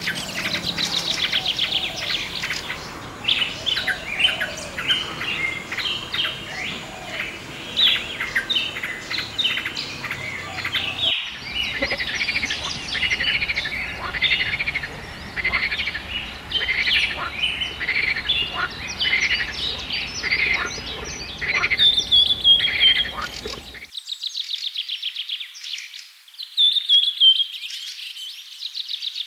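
Many birds chirping and calling at once, a dense mix of short, quick notes and trills. Near the end the low background drops out and only high, fast trills remain.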